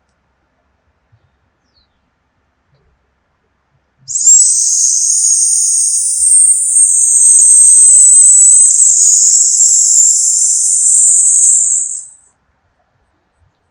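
A person exhaling the qigong lung healing sound, a long sibilant "sssss" held for about eight seconds, starting about four seconds in and tailing off near the end. It is the exhale that purges the lungs.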